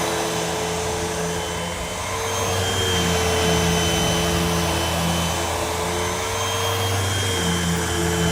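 Hoover WindTunnel upright vacuum cleaner running steadily: a rush of air with a motor hum and a high whine that wavers only slightly in pitch.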